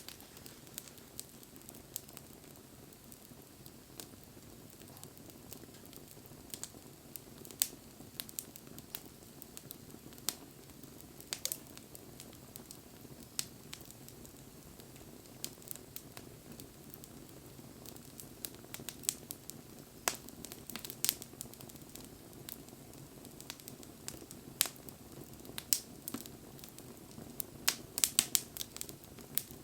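Wood bonfire crackling, with sharp pops scattered throughout and a quick run of pops near the end, over a low steady rush of flame.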